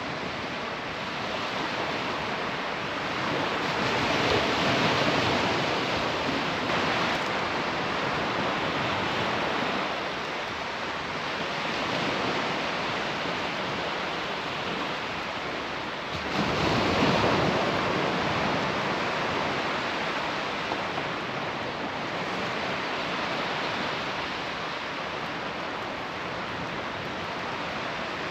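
Sea surf washing onto the beach, a steady rush of waves with a louder break about four seconds in and another, the loudest, a little past the middle.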